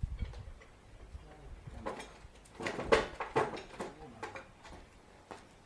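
Irregular clicks and knocks, like tools and parts being handled, loudest and most frequent about three seconds in.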